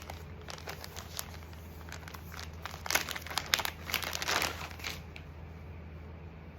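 Crinkling and rustling of something being handled, in irregular clusters that are thickest past the middle, over a steady low hum.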